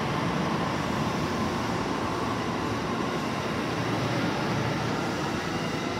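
A train moving along the tracks at the station: a steady rumble of wheels on rails, with no single sharp event.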